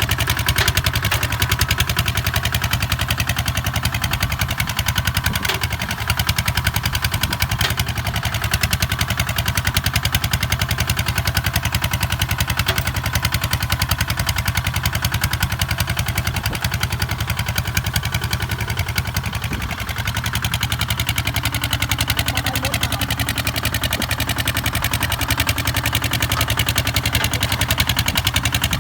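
Kubota ZT 155 DI tractor's single-cylinder diesel engine running steadily with a fast, even chug, dipping slightly about two-thirds of the way in.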